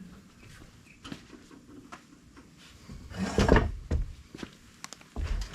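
Knocks, clunks and scraping from handling a tractor wheel and tools while fitting it back on, with a loud cluster of thuds about three seconds in and another heavy thump near the end.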